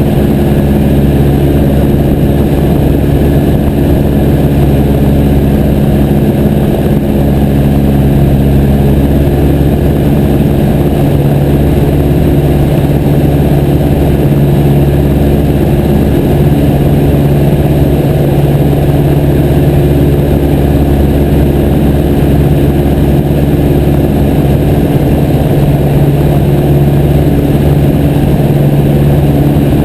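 Piper J3 Cub's small piston engine and propeller running steadily at an even power setting, a loud constant drone with rushing air noise.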